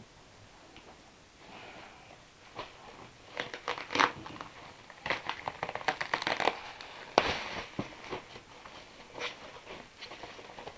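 Packing materials being handled and unwrapped: plastic and bubble wrap crinkling and rustling, with scattered sharp crackles and clicks. It is busiest in the middle, with two louder snaps about four and seven seconds in.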